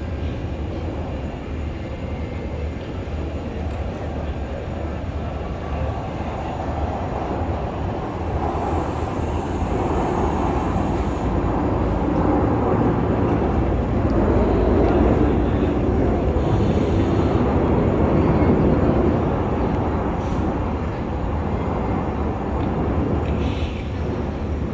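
Aircraft engine rumble: a steady, low noise that swells to its loudest around the middle and then eases off, as of an aircraft passing.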